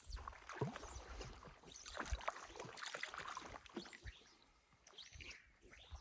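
Faint, irregular small splashes and sloshing of water close by, with soft knocks, easing off near the end.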